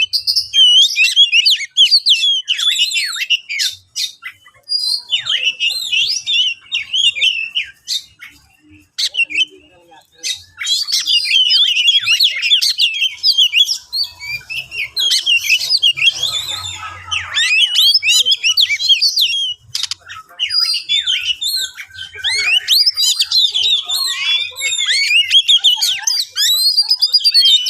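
Oriental magpie-robin singing a fast, varied song of chirps, whistles and harsh notes, with a few short pauses.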